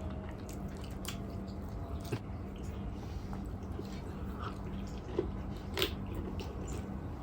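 A person chewing and biting food close to the microphone, with scattered wet mouth clicks and smacks over a steady low hum.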